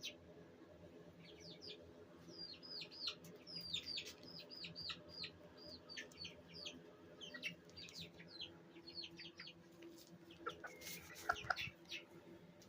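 Young bantam chickens peeping softly: runs of short, high chirps that slide down in pitch, several a second. A lower, louder call comes near the end.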